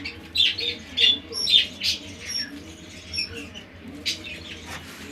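Pet birds chirping and squawking in short, sharp, high calls, several a second, with softer lower calls underneath.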